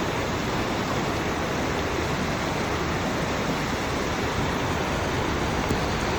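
Floodwater of a wadi in spate rushing past in a steady roar.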